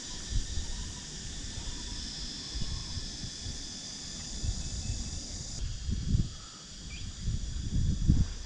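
Night insects trilling steadily, with strong wind buffeting the microphone in low, uneven gusts that get stronger near the end.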